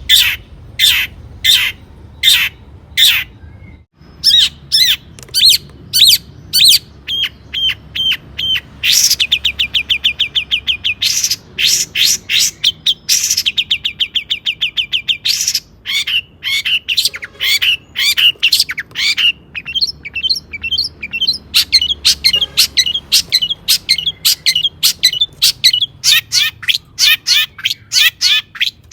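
Long-tailed shrike singing loudly. A series of harsh, scratchy notes comes about two a second, then fast rattling trills, then a varied chattering run of mixed phrases of the kind shrikes build from mimicked calls.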